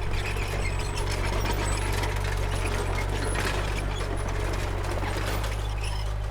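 Komatsu D31P crawler bulldozer at work: its diesel engine runs steadily under a dense clatter of steel tracks, with short high squeaks.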